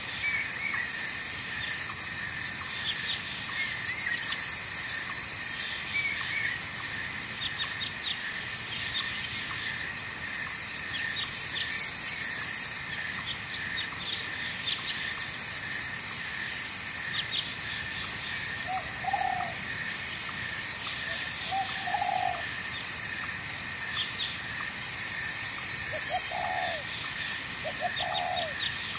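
Night forest ambience: a steady chorus of insects and crickets trilling, with scattered short bird chirps. A few short, low hooting calls come in the second half.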